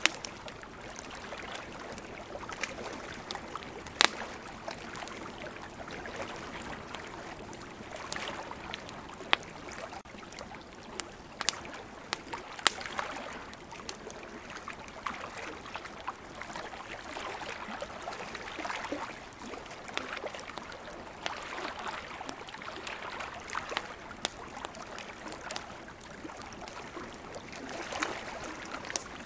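Wood campfire crackling, with louder sharp pops scattered through, about 4, 9, 12 and 13 seconds in. Under it is a steady wash of sea waves that swells and fades every few seconds.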